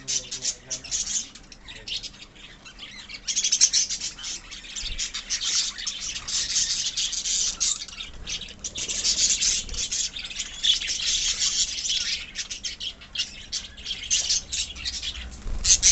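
A colony of lovebirds chattering and chirping together, a dense, rapid, high-pitched din of many overlapping calls, with a brief lull a couple of seconds in.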